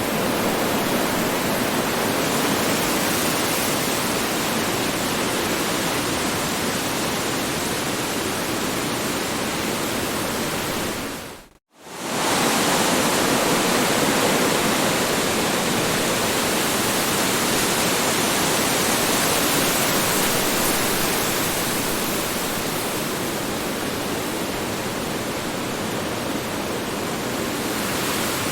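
Strong wind blowing as a steady, dense rushing noise. A little before the middle it fades down to silence for a moment, then swells straight back to the same level.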